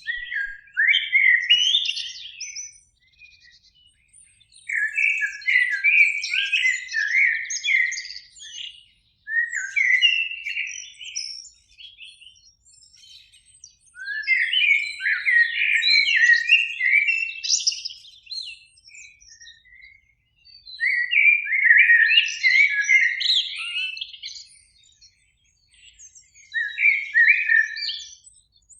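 Eurasian blackbird singing: about six separate song phrases with short pauses between them, each a run of quick sliding notes.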